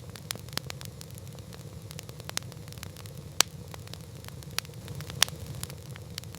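Wood campfire crackling: scattered sharp pops at irregular intervals over a steady low rumble, with the loudest pops about three and a half and five seconds in.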